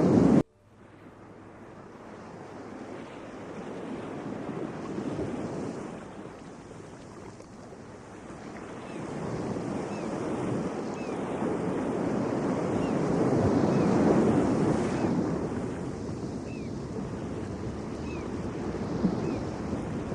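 Ocean surf on a beach: a loud wash cuts off abruptly about half a second in, then the sound of the waves builds back up and ebbs in slow swells as breakers roll in and recede.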